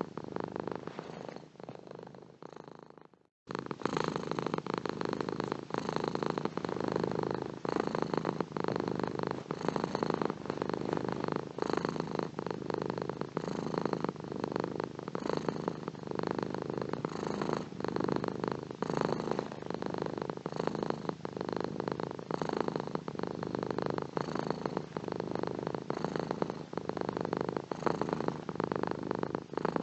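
Domestic cat purring: a continuous, rapid, rough rumble. About three seconds in, it fades and breaks off for an instant, then resumes at full strength.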